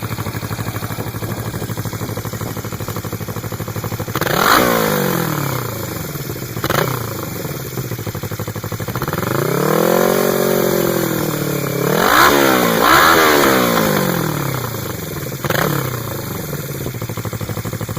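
Yamaha XS400 air-cooled parallel-twin engine, fully warmed up, idling and blipped by the throttle about six times: quick revs near 4 s and 7 s, a longer held rev in the middle, two revs close together after it and a last blip near the end. The owner notes more top-end noise from the engine once it is warm.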